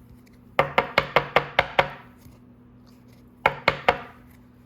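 Quick runs of sharp taps on a hard surface, about five a second: seven in a row, then a pause, then four more. These fit a card in a rigid plastic holder being tapped on the table to seat it.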